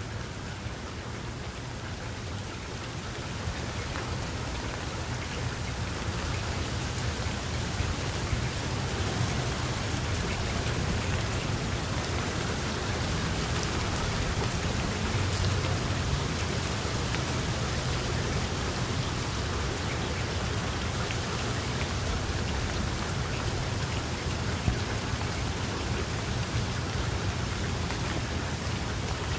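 Steady rain falling: a dense hiss with scattered drop ticks and a low rumble underneath, growing a little louder over the first few seconds and then holding steady.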